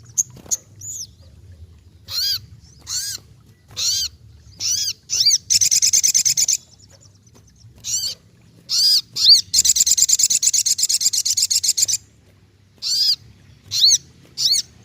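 Sogok ontong songbird singing: a series of short, high, arched chirps, each well under half a second, repeated roughly once a second. The series breaks twice into a long, fast, rattling trill, once about five seconds in and again from about nine to twelve seconds.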